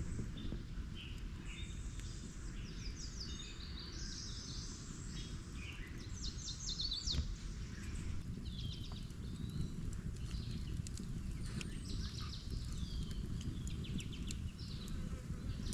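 Outdoor wildlife chirping and trilling: many short calls, quick trills and sweeping notes throughout, over a steady low rumble.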